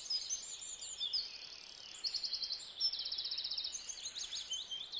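Birdsong ambience: several birds chirping high-pitched, with repeated fast trills, over a faint steady background.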